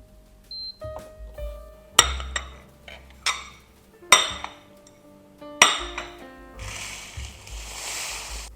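Hard objects clinking and knocking together four times with a short ring, then a steady rushing hiss for about two seconds that cuts off near the end, over soft background music.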